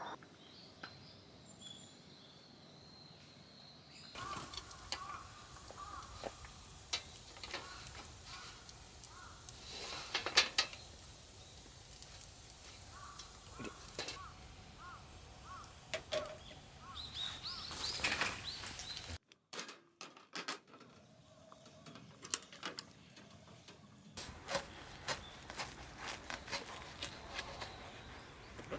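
Birds chirping in short repeated calls over outdoor background noise, with scattered sharp clicks and taps. The background changes abruptly three times.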